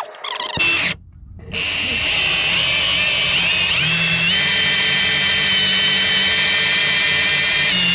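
Electric drill boring through a solid teak deck over an inch thick, running steadily after a short break about a second in, with its whine climbing in pitch a few seconds in and then holding.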